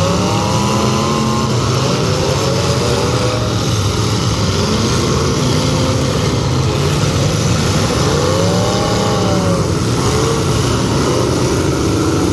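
Demolition derby cars' engines running loudly on the track, revving up and down several times so the pitch rises and falls, strongest about eight to ten seconds in.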